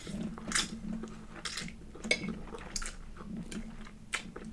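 A person chewing a mouthful of pasta close to the microphone, with irregular wet mouth clicks over a low steady hum.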